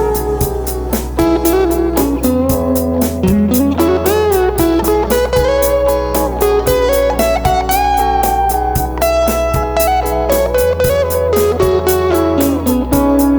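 Instrumental break of a folk-rock song: a lead guitar plays a solo line whose notes bend and glide, over a steady drum beat and a bass line.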